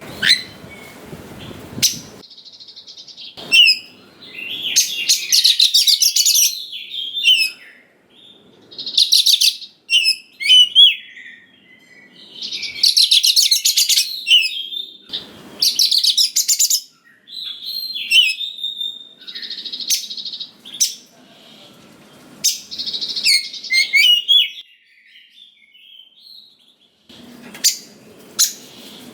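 Oriental magpie-robin singing: varied phrases of clear whistles and fast rattling runs of repeated notes, with short pauses between phrases.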